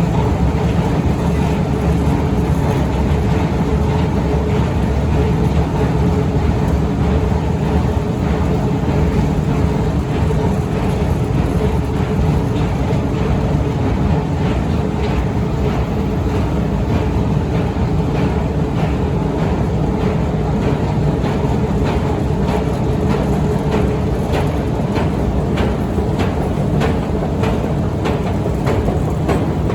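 Otis escalator running: a steady mechanical drone with a held hum, and regular clicks that come more evenly in the second half.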